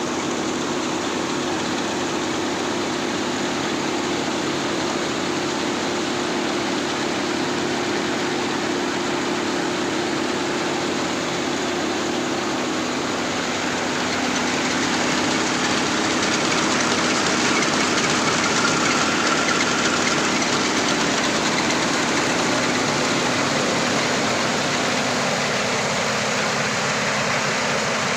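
Tractor-operated mini rice mill running, driven by the tractor's engine: a steady, dense mechanical noise over a low engine hum, growing a little louder about halfway through.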